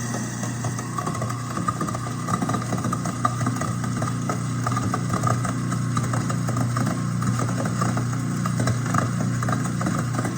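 Kitchen garbage disposal motor running with a steady hum and a light rattle, with a thin trickle of water running into it during a disposal cleaning cycle.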